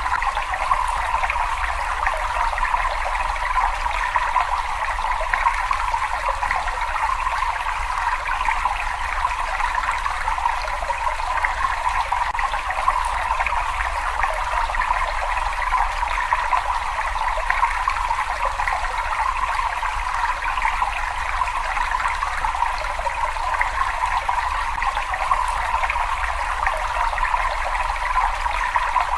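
Running water trickling and splashing without a break, a steady, fine-textured wash with a low rumble beneath it.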